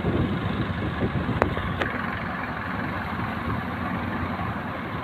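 A fishing boat's engine running steadily, with a rushing noise over it and two short clicks about a second and a half in.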